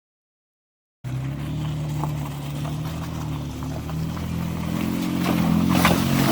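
2010 Toyota Tacoma pickup's engine running at low speed on a rough trail, starting abruptly about a second in and rising slightly in pitch and level near the end, with a couple of sharp knocks.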